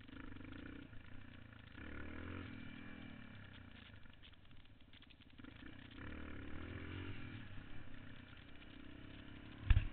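Yamaha XT350's single-cylinder four-stroke engine running on the move, revving up and easing off twice. A sudden loud thump comes right at the end.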